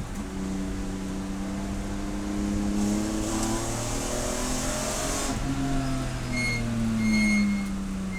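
Race car engine running hard, its note rising and falling with throttle and gear changes. A hiss swells for about two seconds in the middle, and brief high-pitched squeaks come near the end.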